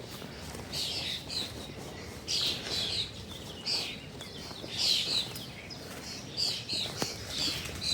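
Birds calling: short, high, falling notes in clusters of two or three, repeated about once a second.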